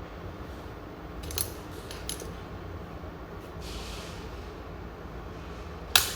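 A few sharp clicks and knocks of small hard objects being handled, with a short hiss in the middle and one loud click near the end.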